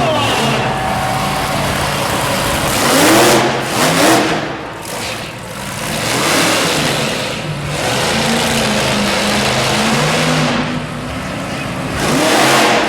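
Monster truck engine revving hard, surging up in pitch about three and four seconds in and again near the end, with a steadier lower run between the surges.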